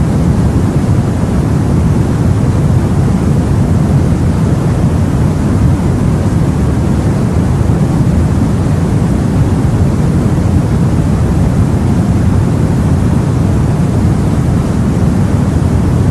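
Steady, low rumbling sea and wind noise, as heard aboard a boat, with no separate wave crashes or other events.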